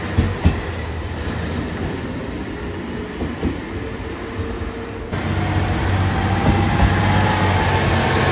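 JR Shikoku 1500 series diesel railcar running, a steady low drone with two sharp wheel knocks near the start. About five seconds in the sound changes abruptly and gets louder, with a faint rising whine.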